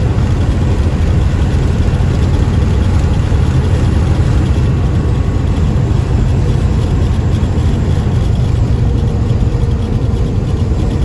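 Semi-truck running, heard from inside the cab: a steady low engine drone mixed with road noise.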